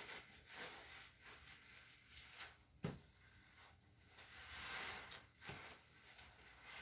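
Faint, soft rubbing and squishing sounds of wet cleaning work, coming in swells, with one sharp knock about three seconds in.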